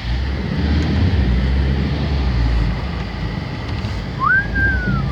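Heavy rain pouring down, with a low rumble during the first few seconds. Near the end comes a single short whistle that rises, then falls.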